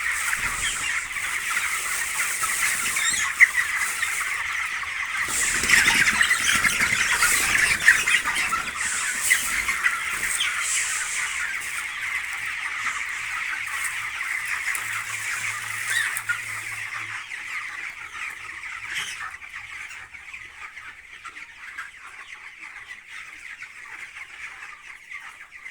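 A flock of chickens in a poultry farm, many birds calling and clucking at once in a continuous overlapping chatter. It is loudest about a quarter of the way in and slowly fades toward the end.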